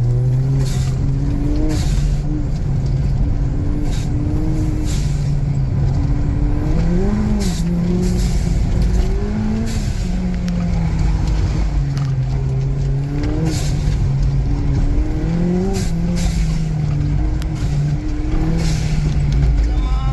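Big-turbo Ford Fiesta's engine working hard on a wet autocross run, its pitch rising and falling over and over as the driver gets on and off the throttle between corners. Short, sharp hissy bursts come high over the engine every second or two.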